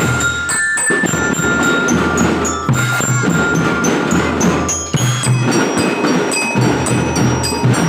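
Children's drum band playing a marching tune: bell lyres ring out the melody over steady drumming.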